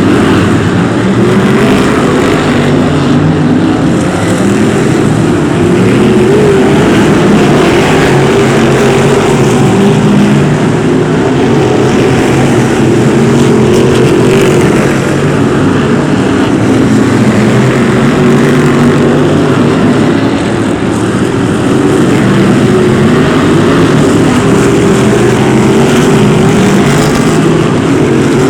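BriSCA F1 stock cars racing, several V8 engines running together in a loud continuous din, their pitches rising and falling as the cars accelerate and lift off round the track.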